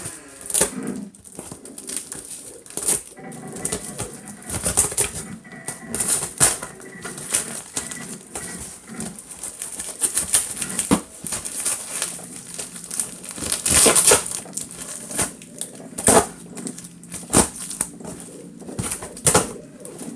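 Tape being ripped and torn off a heavily taped package, with packaging crinkling and rustling in irregular, sharp bursts.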